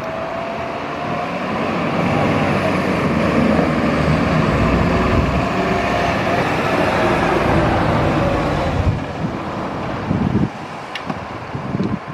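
A fire engine passing close by without its siren: engine and tyre noise with a faint steady whine swells over the first couple of seconds, holds, then falls away sharply near the end.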